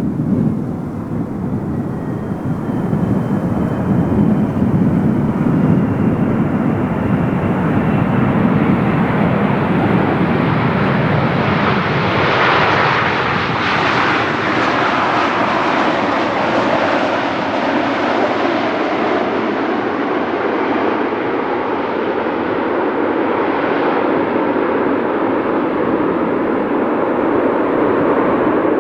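Boeing 777-300ER's GE90-115B turbofan engines at high thrust, a loud continuous jet roar. It swells to its fullest and brightest about halfway through as the aircraft passes, then dulls and eases as it draws away.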